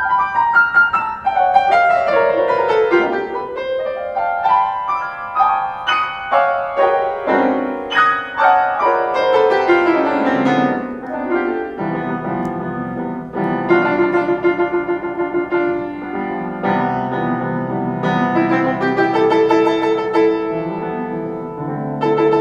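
Solo keyboard piano music: quick descending runs of notes in the first half, then held chords over a steady low bass from about halfway through.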